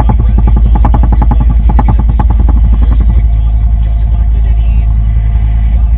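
An engine running, with a strong low rumble: a rapid pulsing beat for the first three seconds or so settles into a steadier drone.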